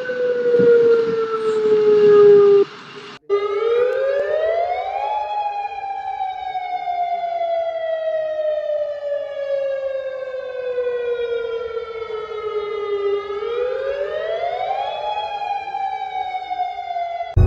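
Civil-defence warning siren wailing, of the kind sounded as a tsunami warning. A falling tone cuts off about three seconds in. A cleaner siren then rises, falls slowly for several seconds, rises again and starts falling.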